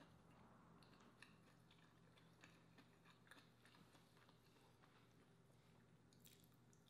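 Near silence: faint, scattered wet mouth clicks of someone chewing food, over a low steady hum, with a slightly louder crisp bite near the end as a slice of cucumber is bitten.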